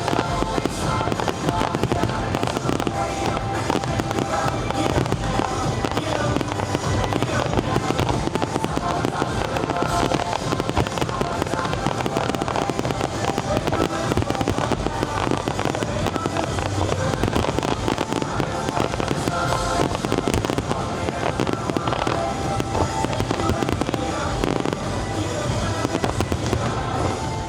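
Fireworks display going off continuously: dense, rapid bangs and crackling shells, with a musical soundtrack running underneath.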